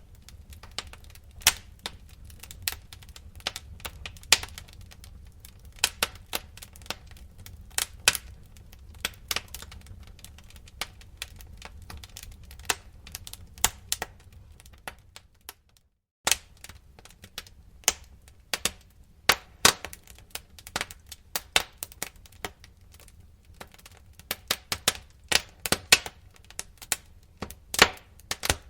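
Wood fire crackling in a fireplace: irregular sharp snaps, several a second, over a low steady rumble. The sound drops out for a moment a little past halfway, then resumes.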